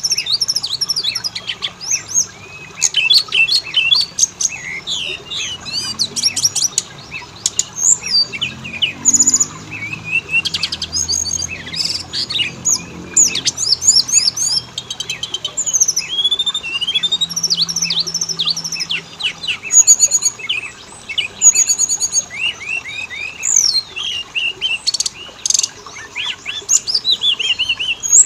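Oriental magpie-robin song, continuous and varied: clear whistles, fast trills and rapid chattering notes in quick succession. A lure recording meant to set caged magpie-robins singing.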